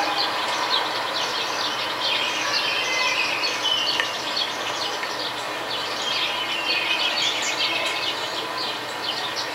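Many songbirds chirping and twittering at once: quick high notes overlapping throughout.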